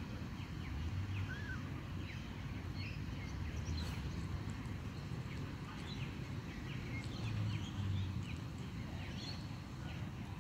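Many short, faint, high chirps from birds, scattered throughout over a steady low rumble.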